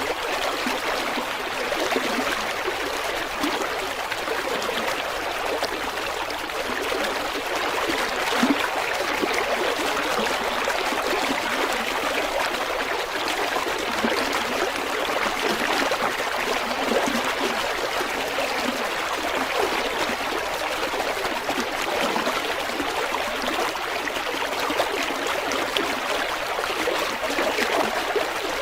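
River water flowing and trickling over rocks: a steady rushing babble with small splashes and gurgles throughout.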